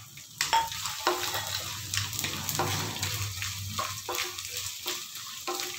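Pieces of gond (edible gum) sizzling as they fry in hot desi ghee in a stainless steel kadai, with a wooden spatula stirring and scraping against the pan, making frequent short clicks.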